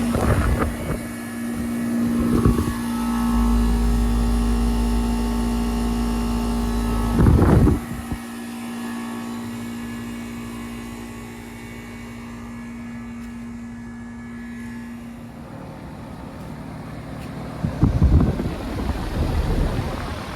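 Bryant heat pump outdoor units running in heating mode: a steady compressor hum with fan noise, the hum tone fading out about three-quarters of the way through. Wind buffets the microphone several times, loudest near the end.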